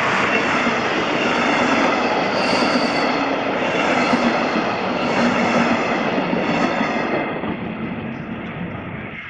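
A train passing close by: a loud, steady rush and rumble of wheels on rails that eases off over the last two seconds.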